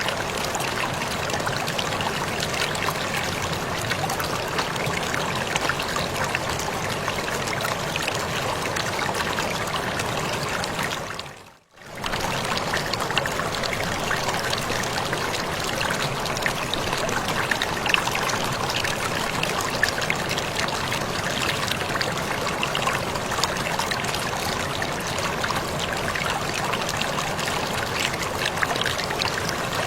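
Waterfall splashing steadily, a dense rush of falling water with fine spatter. About twelve seconds in it fades out to near silence for a moment and then returns, like a loop joint in the recording.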